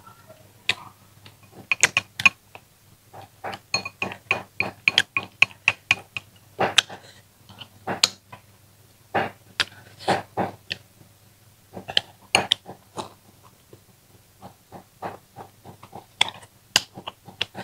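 Close-miked eating sounds: rapid wet chewing and lip-smacking on rice and braised fish, with the odd click of chopsticks against a glass bowl.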